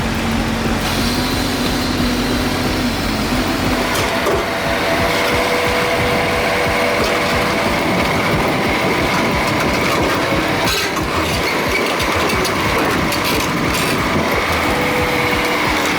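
Heavy diesel machinery running steadily, with a few sharp clanks or knocks.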